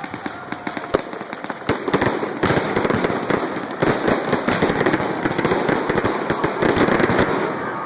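Fireworks display: shells bursting with sharp bangs, turning about two seconds in into a dense, continuous crackle of many small reports.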